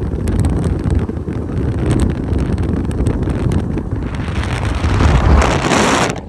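Wind buffeting the microphone over the low rumble of a moving ride, with a hissing rush that swells near the end.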